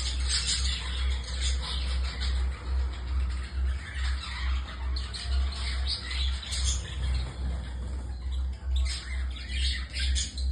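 Many budgerigars chirping and chattering together in rapid, overlapping short calls, over a steady low rumble.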